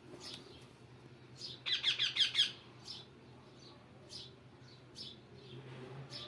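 Pet parrot chirping: short high chirps scattered throughout, with a quick run of about seven loud chirps around two seconds in.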